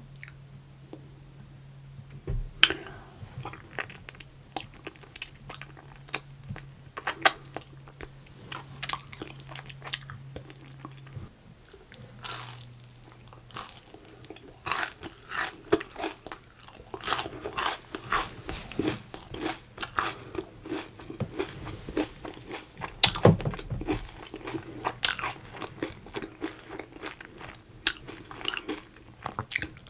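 A person eating close to the microphone: irregular crunching bites and chewing of crisp food, over a faint steady low hum.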